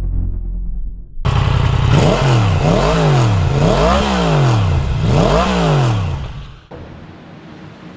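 Motorcycle engine revved repeatedly: the pitch rises and falls four times in a row over about five seconds, then cuts off abruptly.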